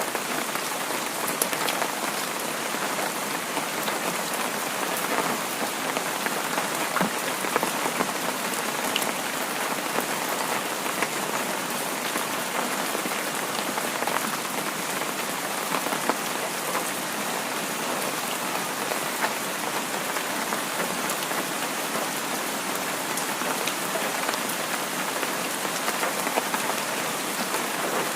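Heavy rain falling steadily, with many individual drops striking sharply against the constant wash.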